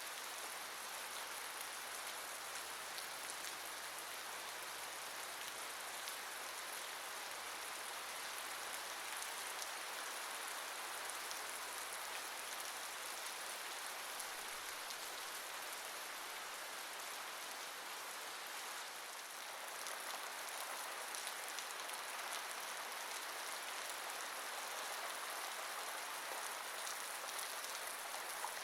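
Steady rain falling: an even hiss of drops, with fine ticks of single drops through it.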